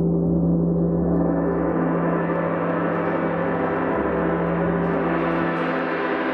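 Wind gong being played, ringing steadily with many overlapping tones; the sound grows brighter as higher overtones build up and spread upward.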